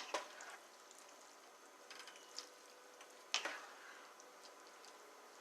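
A metal utensil knocking and scraping against a cooking pot while spaghetti is mixed, a few sharp clinks spread over a few seconds above a faint steady background.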